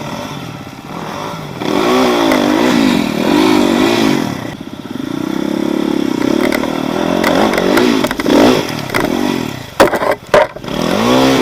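Off-road vehicle engine being worked hard over rough ground, the revs rising and falling quickly as the throttle is blipped, with a few sharp knocks and clatters near the end.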